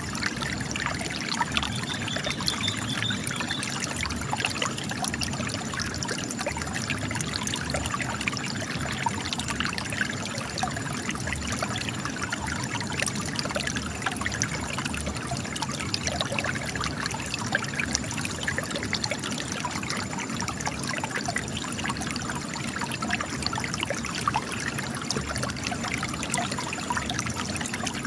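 Spring water trickling and gushing out of cracks in rock, a steady run of splashing and dribbling with many small droplet ticks.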